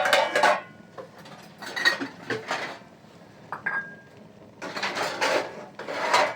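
Dishes and metal pots clattering and clinking in three bouts, with one brief ringing clink between them.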